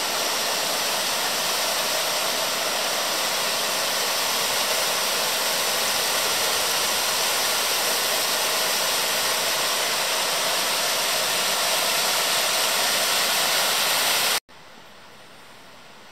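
Waterfall: a steady, loud rush of falling water. About a second and a half before the end it cuts off abruptly and gives way to a much fainter hiss.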